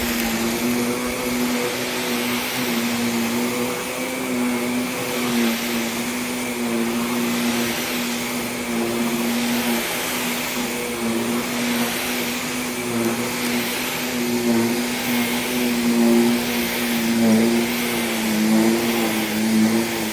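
Vacuum cleaner running steadily, pre-vacuuming pet hair out of a small rug, its hiss swelling and fading with each push and pull.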